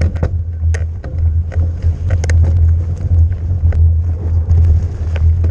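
Haibike e-mountain bike riding fast down a rough trail: a steady low rumble with frequent irregular sharp clacks and rattles from the bike over bumps.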